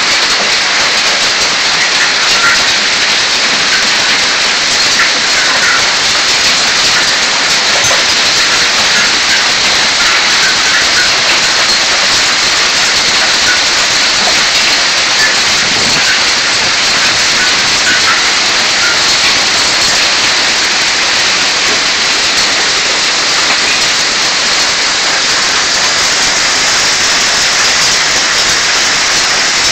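Heavy rain and hail pelting down in a steady loud hiss, with scattered sharp ticks throughout.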